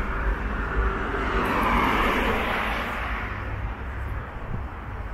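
City road traffic: a vehicle passes, growing louder to about two seconds in and then fading away, over a steady low rumble.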